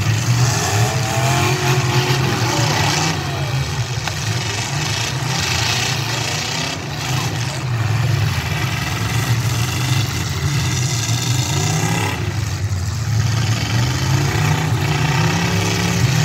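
Several demolition-derby car engines running and revving hard together, their pitch rising and falling over and over.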